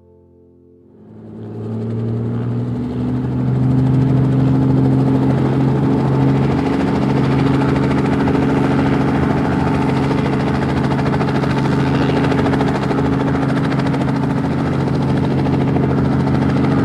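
Helicopter running: a steady engine-and-rotor drone that builds up over the first few seconds, its pitch rising slightly, then holds level.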